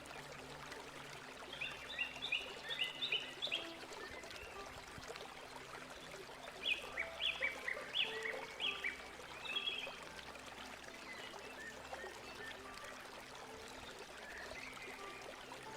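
Water running and trickling steadily, with two runs of quick, high bird chirps, one about two seconds in and one around the middle.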